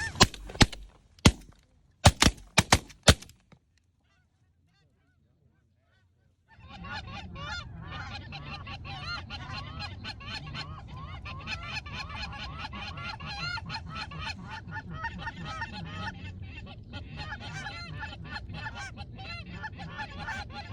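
A rapid volley of about eight shotgun shots in the first three seconds, then a short dead silence. From about six seconds in, a large flock of birds calls continuously in a dense chorus.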